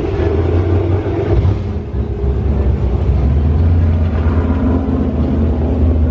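Car engine running with a steady low rumble, dipping briefly about two seconds in and then growing stronger again.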